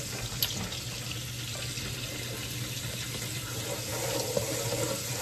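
Garlic sizzling steadily in hot oil in a wok while it is stirred with a wooden spatula, with a light tap about half a second in.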